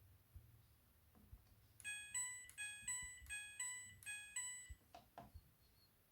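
Midea front-loading washing machine's electronic chime playing a short tune of about eight beeping notes, followed by a couple of sharp clicks.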